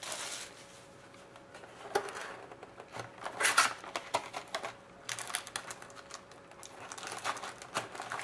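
Plastic wrapping crinkling and tearing, with scattered clicks, in irregular bursts as a sealed box of hockey cards is unwrapped and opened.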